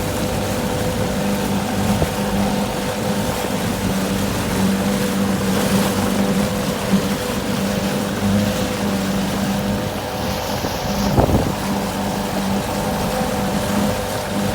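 1966 Evinrude two-stroke outboard motor running steadily while the boat is underway, purring along. There is one brief knock about eleven seconds in.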